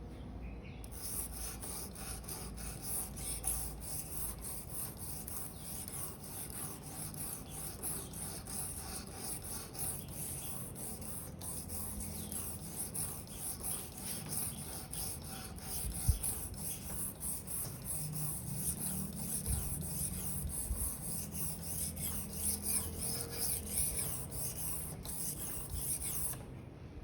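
Victorinox paring knife blade stroked back and forth over a 1500-grit whetstone: a steady, rhythmic, hissing scrape that starts about a second in and stops just before the end. The strokes on this side of the blade are raising a burr along the edge.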